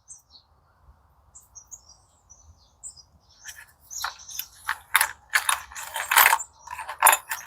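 Loose steel gearbox parts clinking and rattling against each other as they are handled: a rapid string of metallic clicks and clinks from about three and a half seconds in, after a few faint high chirps.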